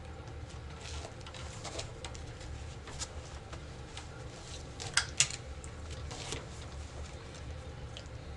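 Playing cards being laid and slapped down on a table, a scatter of light snaps with two sharper ones in quick succession about five seconds in, over a low steady hum.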